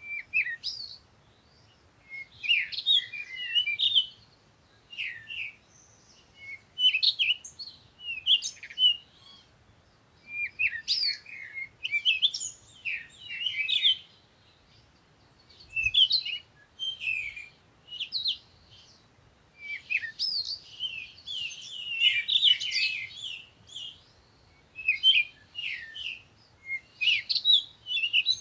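Songbirds chirping and twittering in quick, high bouts of a second or two each, with short pauses between, over a faint low background rumble.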